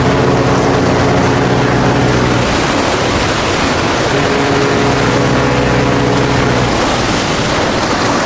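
Loud, steady rush of heavy seas and wind. A low held tone of several pitches comes in for about the first two and a half seconds and again from about four seconds to nearly seven.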